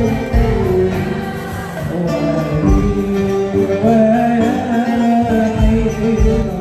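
A choir singing a melody in unison over percussion beats.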